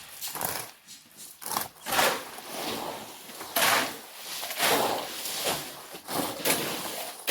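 Shovels scraping and scooping through sand and gravel in irregular strokes.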